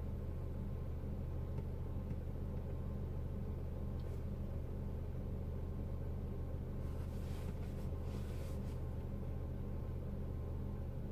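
Peugeot RCZ 1.6 THP turbocharged four-cylinder petrol engine idling steadily, with no dip in the idle here. A brief hiss is heard about seven seconds in.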